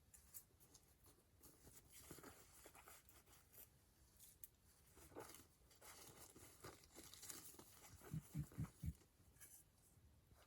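Wood campfire crackling faintly, with scattered small snaps and pops, and four quick low thumps about eight seconds in.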